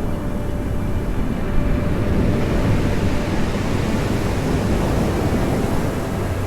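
Black Sea surf rumbling and splashing against the shore, a steady low roar of waves without a single crash standing out.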